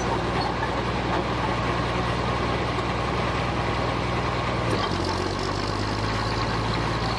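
Old Caterpillar D5 bulldozer's diesel engine running steadily at low revs, its pitch dropping slightly about two-thirds of the way through.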